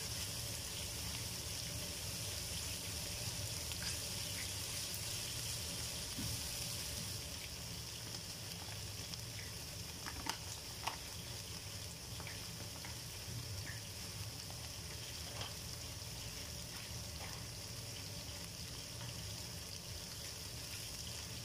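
Oil sizzling steadily in a wok of sautéed garlic and onion as dry desiccated coconut is poured in, the hiss easing a little about seven seconds in. A couple of light clicks come about ten seconds in.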